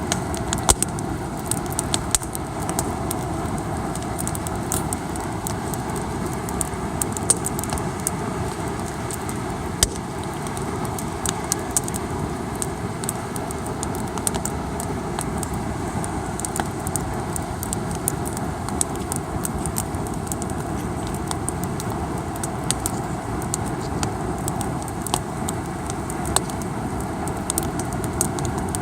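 Wood campfire crackling, with many sharp irregular pops and snaps, over a steady low rushing noise.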